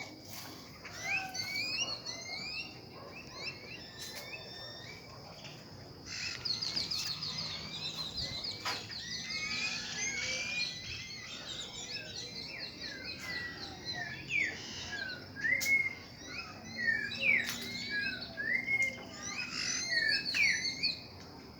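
Several birds chirping and calling at once, with quick high trills and short sweeping whistled notes. The chorus grows busier about six seconds in.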